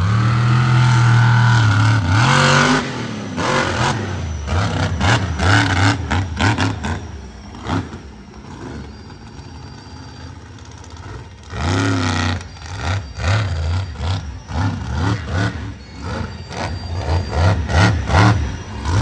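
Monster truck engine revving hard in a freestyle run, pitch climbing and dropping with the throttle. It settles to lower revs for a few seconds mid-way, then surges again with quick blips of the throttle.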